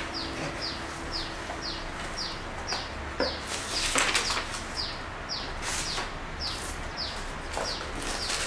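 A bird calling over and over, a short high chirp sliding downward about twice a second, over the rustle of paper leaflets and tissue paper being handled in a shoebox. The paper rustling comes in short bursts, loudest about four seconds in.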